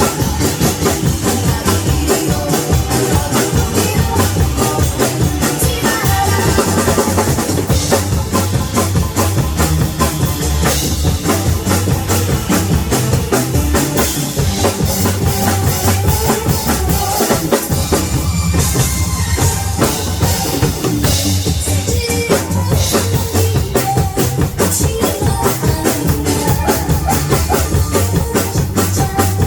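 Drum kit played live along to an upbeat backing track, with bass drum and snare keeping a steady, driving beat.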